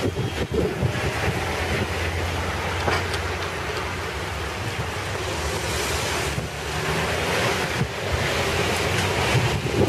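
Long Island Rail Road train of Kawasaki C3 bilevel coaches rolling away around a curve: a steady rumble of wheels on rail, with wind buffeting the microphone.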